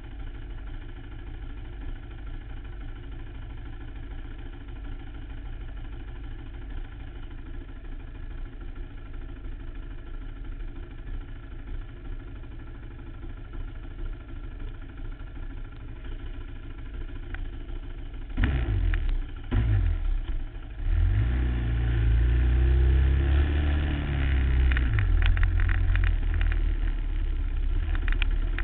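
Suzuki LT-R450 quad's single-cylinder four-stroke engine idling steadily, then blipped twice about two-thirds of the way in and revved hard, pitch rising and falling as the quad pulls away.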